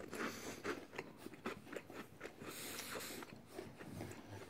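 Crunching and chewing of crisp butter coconut biscuits, heard as a run of faint, irregular short crunches.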